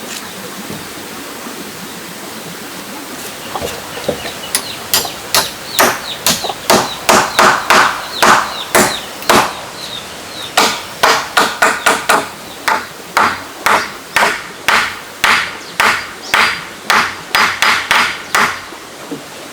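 Hammer driving nails into wood: a steady series of strikes, about two a second, starting a few seconds in with a brief pause midway, over a steady background hiss.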